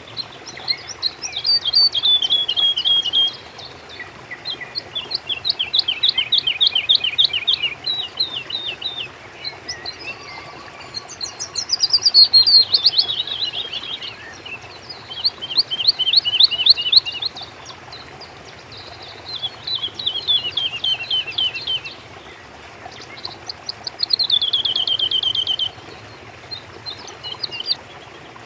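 Songbird singing: a run of rapid trilled phrases, each a quick series of high notes that falls in pitch, repeated every few seconds with short pauses between.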